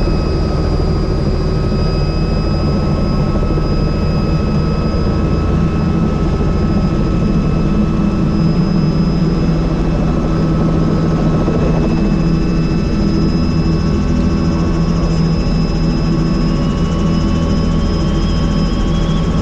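Helicopter in flight heard from the open, doors-off cabin: a steady rotor and engine din with a constant high turbine whine, and a faint tone rising slightly in the last few seconds.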